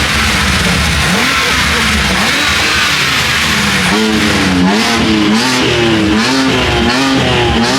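Car engine revved again and again, its pitch rising and falling in quick swings that come faster in the second half.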